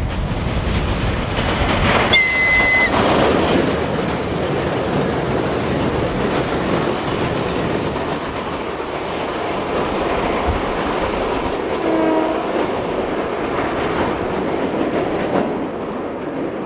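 Train on an electrified line passing close by, its wheels clattering steadily over the rail joints. A short, high-pitched whistle sounds about two seconds in, and a brief, faint lower horn note comes near twelve seconds.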